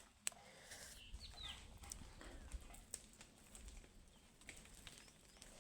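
Near-silent outdoor quiet with a few faint, short, falling bird calls about a second and a half in, and a single sharp click just after the start.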